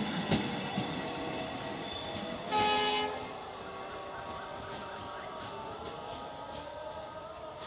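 Departing passenger train's last coach clicking over rail joints as it passes, then the train fading into the distance. A short horn blast sounds about two and a half seconds in, from the WDP4 diesel locomotive at the head of the train. Crickets chirp steadily behind.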